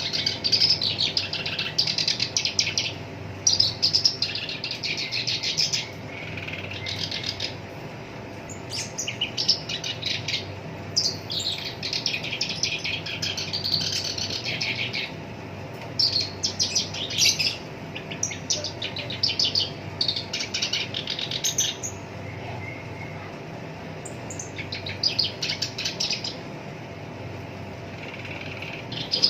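Black-browed reed warbler singing: harsh, fast chattering phrases of rapidly repeated notes, in bursts of a second or two with short pauses between. A faint steady hum sits underneath.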